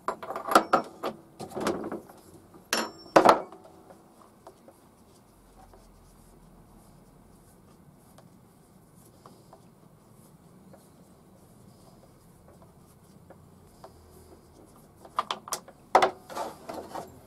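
Knocks, clicks and clatter of a chainsaw and its combination spanner being handled while the bar nut is undone, in a cluster at the start and another near the end, with a long quiet stretch of room sound between.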